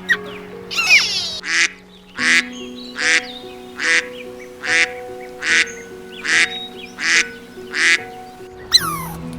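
A duck quacking about ten times in an even run, a little over one quack a second, over background music with held notes.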